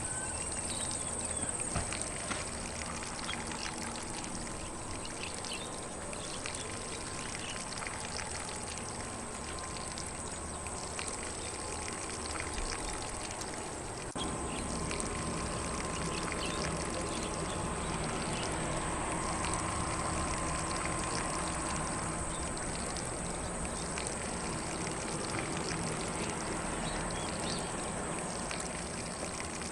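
Lawn sprinkler spraying water onto grass: a steady hiss and patter that gets slightly louder about halfway through. Faint birds chirp in the background.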